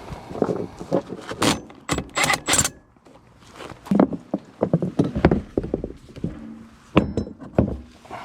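Metal parts and hand tools clanking and clinking in a run of sharp, irregular knocks while a blower motor is being worked on, with a short pause about three seconds in.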